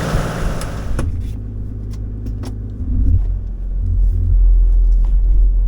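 Low rumble of a car driving, as heard inside the cabin, swelling about three seconds in and louder near the end. Music cuts off about a second in.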